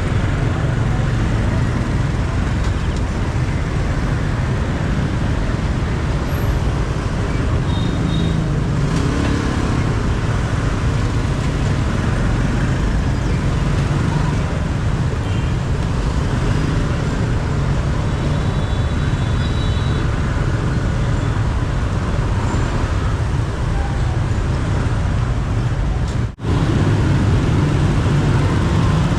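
Steady low rumble of motorbike road and traffic noise picked up by a mounted action camera, with a momentary dropout of the sound near the end.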